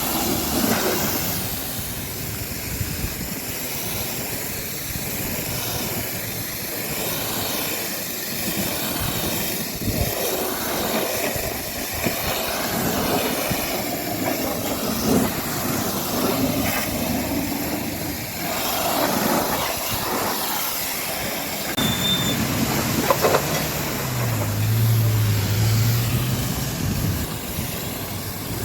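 High-pressure water spray hissing steadily against a truck during washing. About 22 seconds in, a steady low hum joins it.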